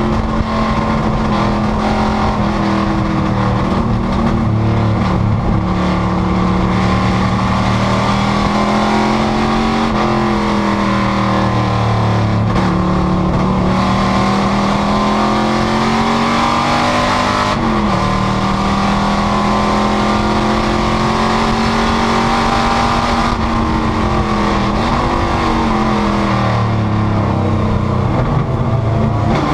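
Panoz GTS race car's V8 engine running hard at racing speed, its pitch slowly rising and falling with the throttle and breaking sharply a little past halfway and again near the end, as at gear changes.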